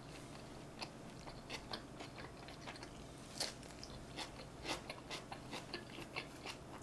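Mouth chewing a soft soy-wrapped rice pocket in chilli sauce, with faint, irregular wet clicks and bites.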